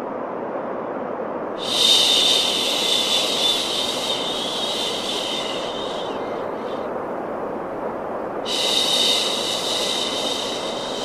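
Steady white noise for baby sleep, with a long soothing "shhh" shush laid over it twice: once for about four seconds, starting nearly two seconds in, and again for about three seconds near the end.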